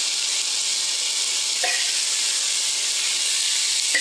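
Chopped smoked sausage and onions sizzling steadily as they fry in a pot, with a utensil clinking against the pot twice, once near the middle and once at the end, as they are stirred.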